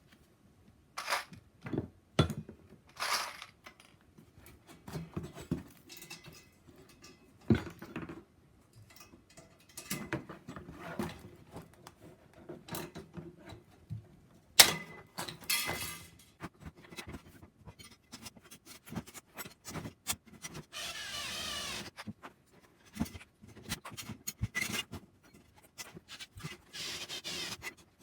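Small metal parts of a homemade fire pit being handled and fitted together: scattered clinks and knocks, one sharper knock about halfway through, and a scraping rub for a second or two near the end.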